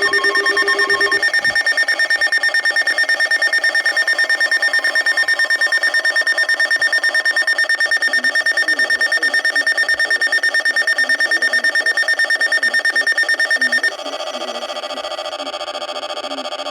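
Emergency alert attention tone: a loud electronic alarm of steady stacked tones, pulsing rapidly and evenly. A few seconds before the end it switches to a quieter pulsing tone at a different pitch, signalling a tornado warning.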